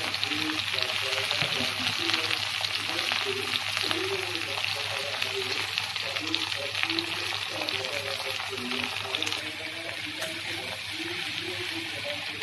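Okra frying in hot oil in a wok: a steady, crackling sizzle.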